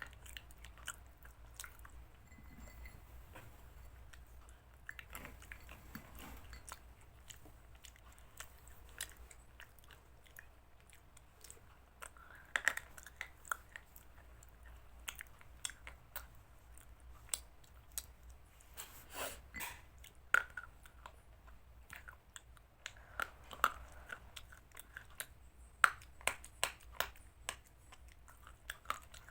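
A person chewing chicken salad, with irregular sharp crunches and clicks.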